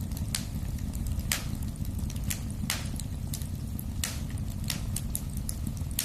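Wood fire burning in a fireplace: a steady low rumble of flames with irregular sharp crackles and pops, more than one a second.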